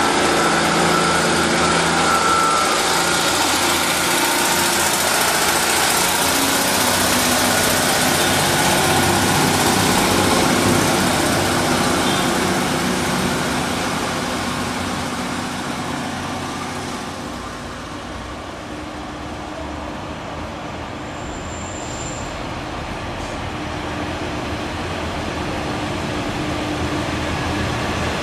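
Diesel multiple-unit trains at a station platform: a Northern diesel unit runs close by at first, its rumble fading away over about fifteen seconds. Then a Class 142 Pacer diesel railbus approaches with a steady engine drone that grows louder near the end. There is a short high squeak about two-thirds of the way through.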